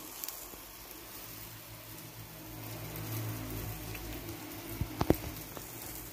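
Faint, steady sizzle of a ragi roti cooking on a hot tawa, with three quick knocks about five seconds in.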